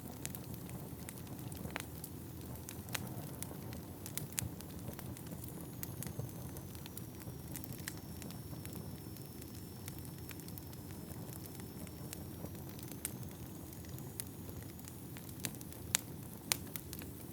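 Wood fire burning in a fireplace: a steady low rush of flames with scattered sharp crackles and pops from the burning logs, two louder pops near the end.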